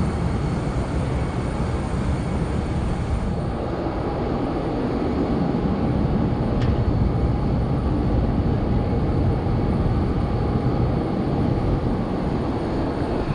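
Steady low rumble of jet airliner engines, without a rise or fall.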